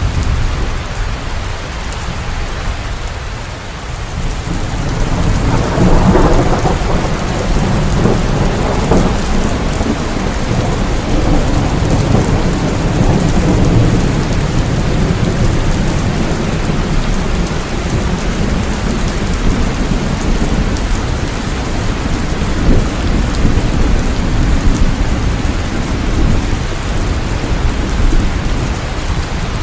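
Steady heavy rain with rolling thunder; the low rumble eases off briefly, then swells again about six seconds in and keeps rolling.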